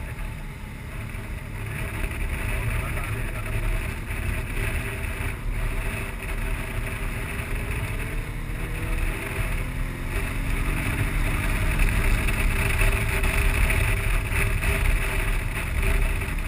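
Motorcycle engine running, with wind rushing over the microphone; the engine note rises a little about halfway through.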